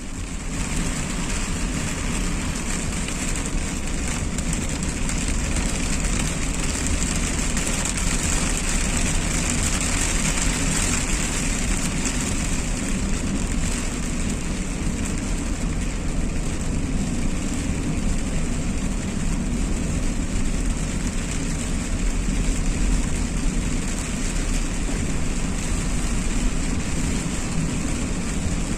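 Steady noise of a car driving in the rain: a low engine and road rumble under an even hiss of rain and wet tyres.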